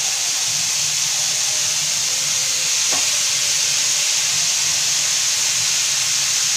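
Dried shrimp (sukat) sizzling steadily in oil and onion-tomato masala in a steel wok, with a faint tap about three seconds in.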